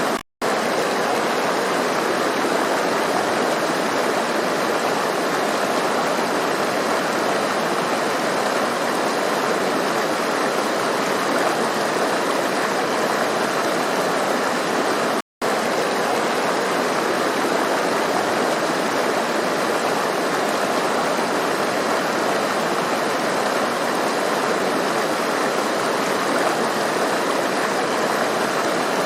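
Stream water rushing and splashing over rocks in a steady, even wash, cut to silence for a split second twice, about half a second in and about halfway through.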